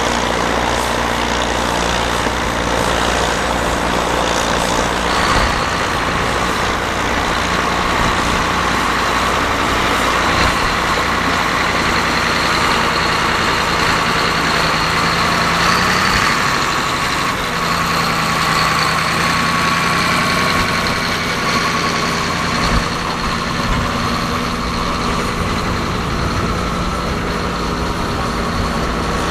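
Versatile 145 tractor engine running steadily, its pitch shifting briefly a little past halfway.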